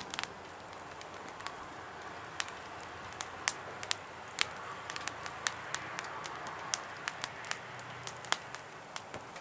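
Wood fire crackling: irregular sharp pops and snaps over a soft, steady hiss of the burning.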